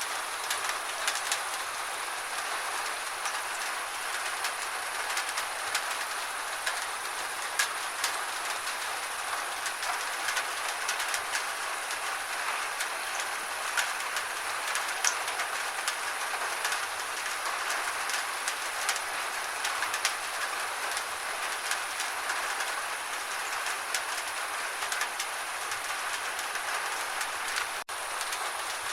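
Steady gentle rain: an even hiss with many separate small drop clicks. It cuts out for an instant near the end.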